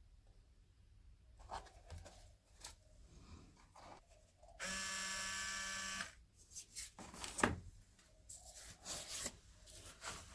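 A small electric motor buzzes steadily for about a second and a half, switched on and off abruptly, amid light clicks and rustles of handling.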